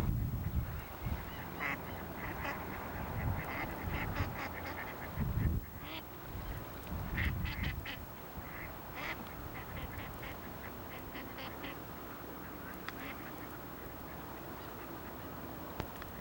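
Waterfowl calling: many short, quick calls in clusters, busiest through the first dozen seconds and thinning out near the end, over low rumbles in the first half.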